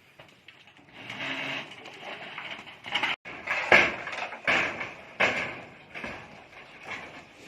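A series of irregular sharp knocks and clatter, roughly one a second, starting about a second in: the kind made by building work such as hammering and handling roof materials.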